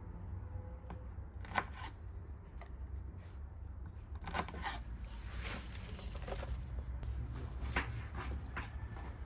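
Food-preparation handling sounds: irregular sharp snips, clicks and scrapes, like a knife cutting and scraping on a board, over a steady low background rumble.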